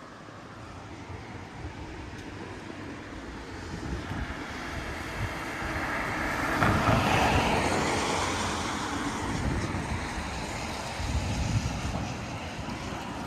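Street traffic on a wet road: a vehicle's tyre swish builds to a peak about halfway through and fades, over steady wind noise on the microphone.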